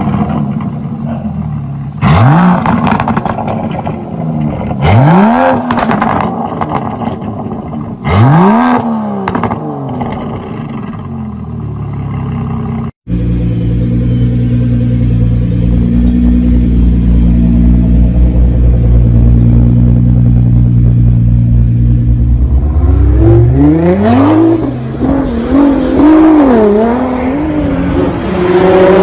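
Aston Martin DBS Superleggera's V12 revved in four sharp blips while stationary, each rising and falling in pitch. After an abrupt cut about halfway, another sports car's engine idles steadily at a low pitch, then revs up and down in quick swells over the last few seconds.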